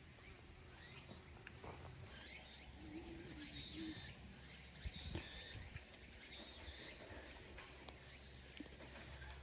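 Quiet outdoor ambience with faint, scattered bird chirps and a few small clicks and knocks.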